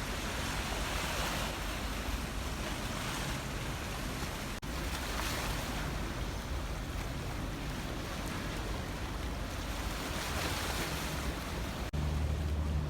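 Wind and water noise, swelling and easing every few seconds. Near the end a steady low drone of a vessel's engine comes in.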